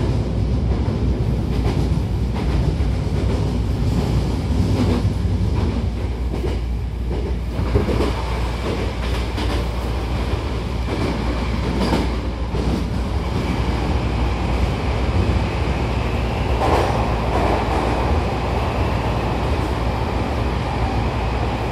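Hankyu Kobe Line electric train running, heard from inside the passenger car: a steady rumble of wheels and running gear with scattered knocks. A thin high whine comes in about halfway through.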